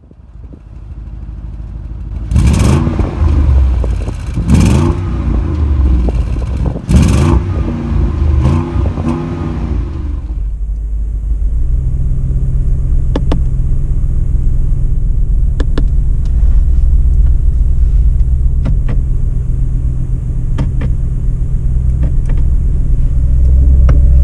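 Audi RS Q8's 4.0-litre twin-turbo V8 revved through its exhaust in about four quick throttle blips, each rising and falling in pitch, then settling about ten seconds in to a steady, deep idle.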